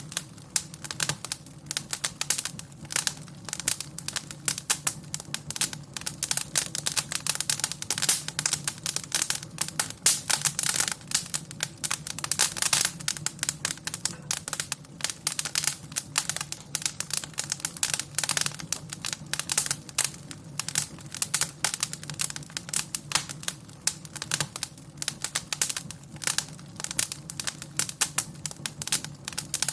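Wood fire in a fireplace crackling and popping continuously: many irregular sharp snaps a second over a steady low rumble.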